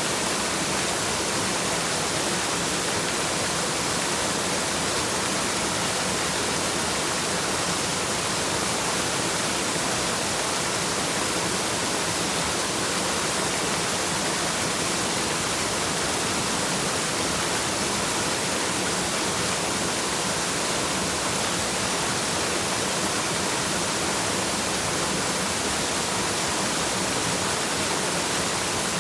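Waterfall: the steady rush of falling water, an even, unbroken hiss weighted toward the high end.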